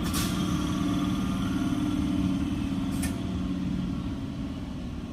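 Indian Railways EMU local train running, a steady rumble with a low hum, fading slightly near the end. Two short hisses break in, one at the start and one about three seconds in.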